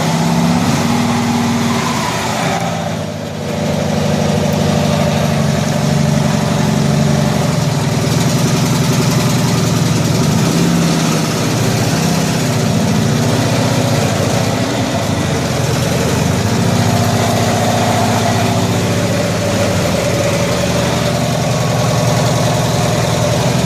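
1974 Cushman Truckster's engine running steadily at low speed while the vehicle is eased along, with a brief dip in level about three seconds in.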